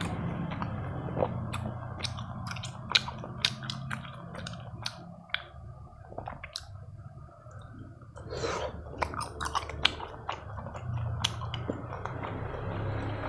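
Close-up chewing of chewy Korean tteokbokki rice cakes in sauce, with many sharp, wet mouth clicks.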